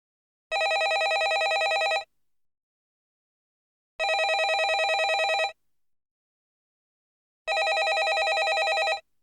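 Landline telephone bell ringing: three rings of about a second and a half each, with about two seconds of silence between them, each ring a fast metallic trill.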